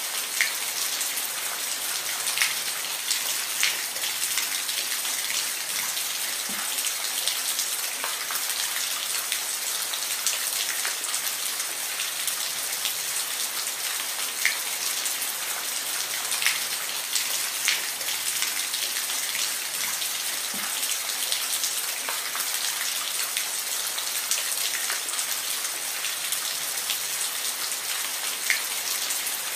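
Steady rain falling, with scattered single drops ticking sharply against a surface throughout.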